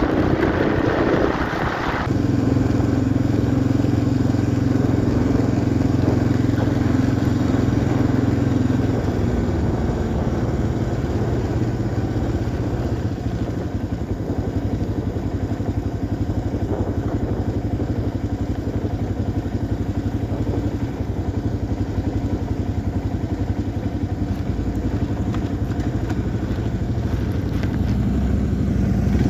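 1990 Yamaha XT350's single-cylinder four-stroke engine running while the bike is ridden, its note steady apart from a step in pitch about two seconds in and a lower, quieter stretch from around nine seconds.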